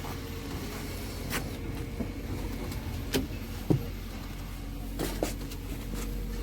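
A steady low engine drone with occasional knocks and clanks on top.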